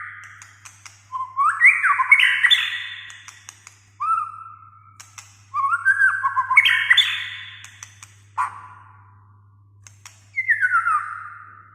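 White-rumped shama singing in separate phrases of whistled notes that glide up and down, mixed with sharp clicking notes, with short pauses between phrases. The last phrase, near the end, falls steadily in pitch.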